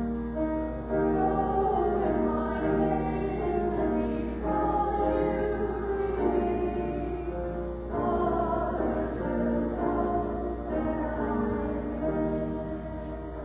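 Church choir singing a slow piece in long held phrases, with a steady low hum underneath.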